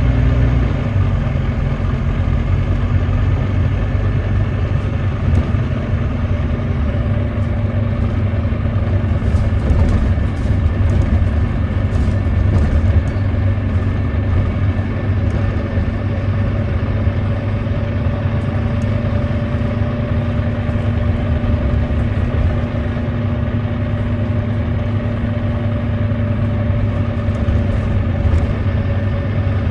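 Volvo D9B 9.3-litre diesel engine of a Volvo B9TL double-decker bus running steadily on the move, the engine the uploader describes as misfiring.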